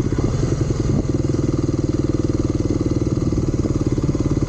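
An engine running steadily, a loud low drone with rapid even pulsing.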